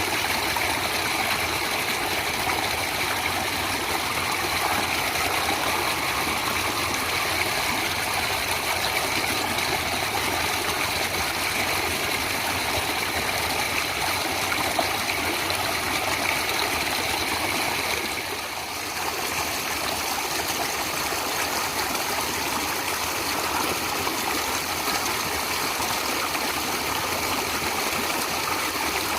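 Stream water flowing and splashing steadily, with a brief dip in level about two-thirds of the way through.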